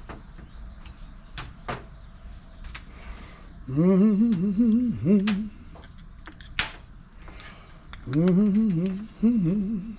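A man's voice humming two short wavering phrases. Between them come a few sharp light clicks and taps of small parts being handled.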